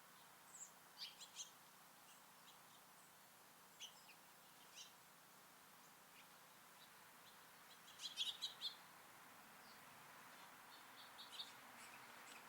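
Small songbirds giving short, high chirps in scattered bunches: a few about a second in, single ones near 4 and 5 seconds, a quick run of louder chirps about eight seconds in, and a few more near the end. A faint steady hiss lies underneath.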